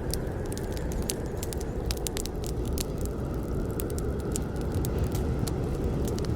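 Campfire burning with a steady low roar and frequent sharp, irregular crackles and pops of burning wood.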